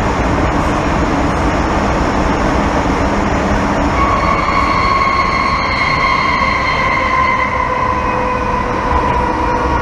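MTR M-Train metro car running at speed, heard from inside the carriage as a steady rumble and rail noise. About four seconds in, a high squeal with overtones sets in and slowly sinks in pitch.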